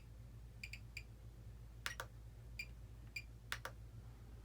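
Faint short beeps from a Spektrum DX8e radio transmitter as its menus are scrolled, a single beep or a quick pair every second or so, with a few sharper clicks of its buttons in between.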